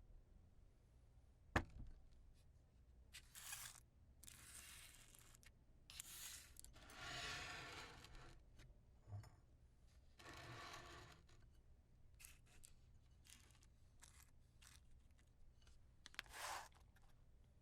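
Wooden matches being lit and put out: a sharp tap about a second and a half in, then a run of short rasping, hissing noises of up to a second and a half each, with light clicks between them.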